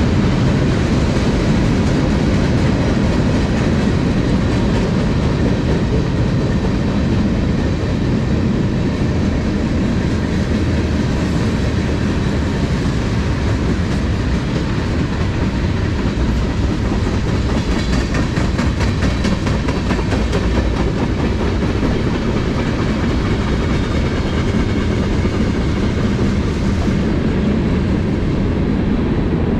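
Freight cars of a manifest train, covered hoppers and then gondolas, rolling past close by: a steady, loud noise of steel wheels on rail, with a run of wheel clicks over the rail joints about two-thirds of the way through.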